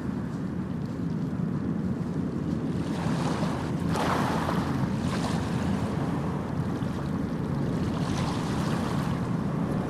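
Sea waves breaking and washing in: a steady low rumble of surf, with brighter hissing swells of wash about three to five seconds in.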